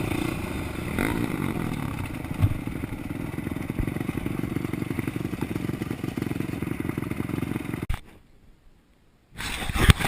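Motocross dirt bike engine running, a fast steady pulsing that cuts off abruptly about eight seconds in. Near silence follows for about a second and a half, then loud sound resumes near the end.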